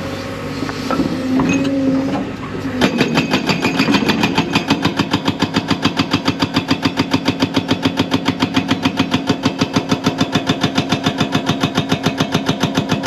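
Hydraulic breaker on a 55,000 lb JCB excavator, breaking rock. The excavator's engine runs steadily, then about three seconds in the breaker starts hammering, a rapid, even series of blows that keeps going.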